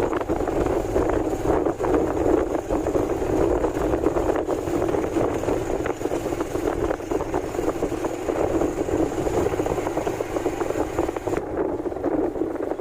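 Vehicle travel noise: a steady engine and road rumble with wind buffeting the microphone.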